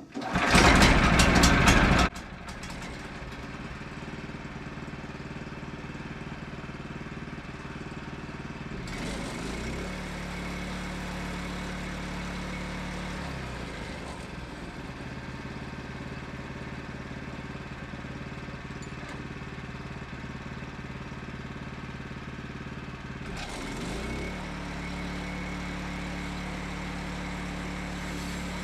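Engine of a Wood-Mizer LX25 portable band sawmill starting with a loud burst in the first two seconds, then running steadily. Its pitch shifts up and down a few times, about nine, fourteen and twenty-four seconds in.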